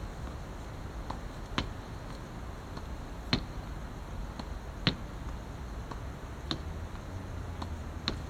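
Badminton racket striking shuttlecocks one after another at an even pace, five sharp pops about every second and a half, over a steady low hum.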